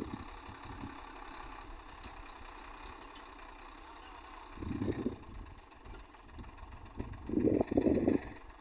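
A sand truck's engine running steadily at idle, with two louder surges, one about five seconds in and one near the end.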